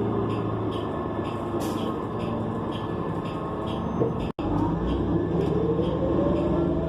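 Interior sound of a 2015 New Flyer XN40 bus with its Cummins Westport ISL G natural-gas engine and Allison B400R transmission: the drivetrain whine falls in pitch as the bus slows. A click and a brief dropout come about four seconds in, then the whine rises again as the bus accelerates.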